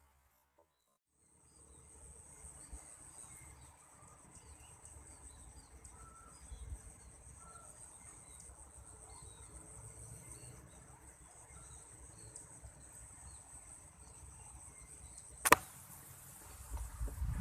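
Steady high insect trill with faint small-bird chirps. Then, about fifteen seconds in, a single sharp shot, followed by low rumbling.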